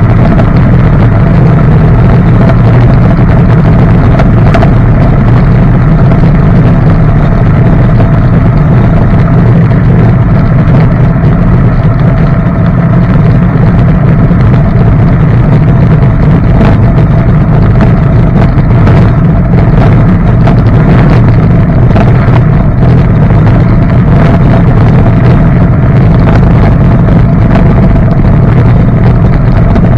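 Jet boat engine running steadily and loud under way, with wind buffeting the microphone.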